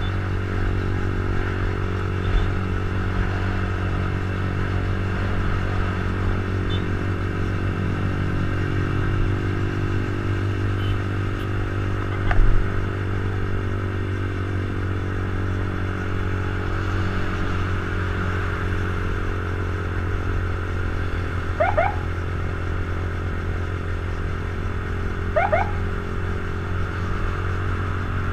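Motorcycle engine running at a steady speed while riding, with road and wind noise. There is a brief knock about halfway through and two short high tones in the last third.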